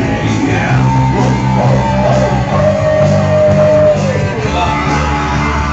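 Live rock band playing an instrumental passage between vocal lines: electric guitar over bass and drums, with a lead line that bends up and down and holds a long note near the middle.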